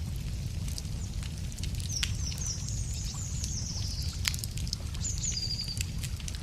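Wood fire crackling, with scattered sharp pops over a low steady rumble. A songbird sings a run of high notes about two seconds in, then a shorter high phrase near the end.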